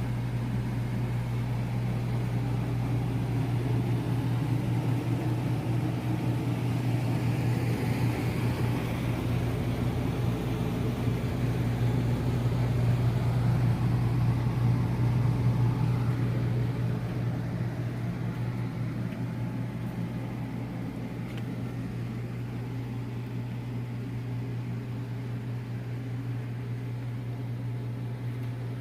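A steady low mechanical hum with a hiss over it. It swells a little mid-way and eases off after about seventeen seconds.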